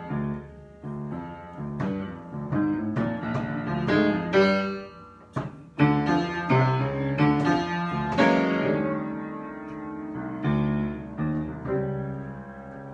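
Solo piano improvisation: single notes and chords struck one after another, each ringing and fading, with louder, busier clusters around the middle.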